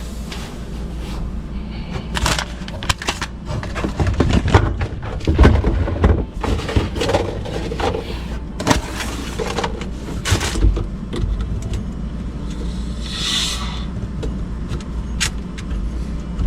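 Irregular clicks, knocks and scraping of hands and tools working at the dishwasher's water supply line while the water is turned on, with a brief hiss about 13 seconds in.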